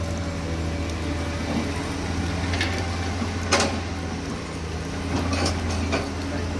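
Heavy diesel engine of an excavator running steadily with a low hum, with a few sharp knocks, the loudest about three and a half seconds in.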